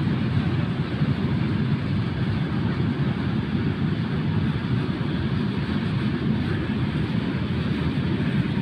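Empty flat freight wagons rolling past on the track: a steady, deep rumble of wheels on rail.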